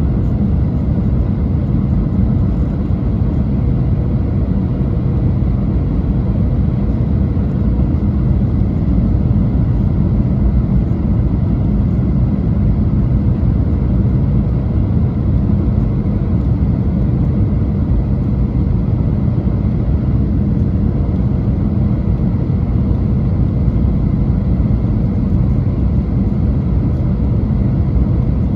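Cabin noise inside a Boeing 737: a steady low rumble of engines and rushing air with a faint steady hum, unchanging throughout, with no touchdown thump or change in power.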